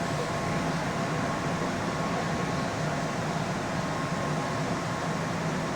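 Keihan electric commuter train running, heard from inside the car: a steady rumble and hiss with a faint steady whine.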